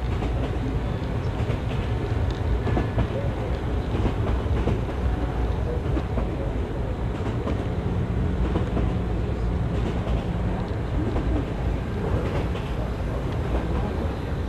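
Model train rolling along the track close to the microphone: a steady rumble of wheels on rails with irregular clicks as they cross rail joints.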